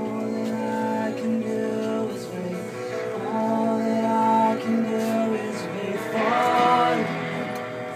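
Live indie-pop band playing a slow passage of long, held notes with some singing, the pitch bending and wavering near the end.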